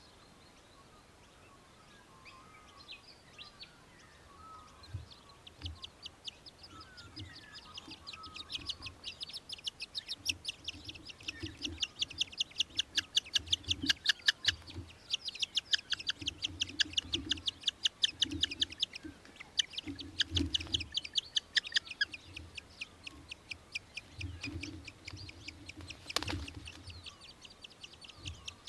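Australian hobby (little falcon) giving long runs of rapid, high-pitched chattering calls that build up a few seconds in and come in bursts. A single sharp click near the end.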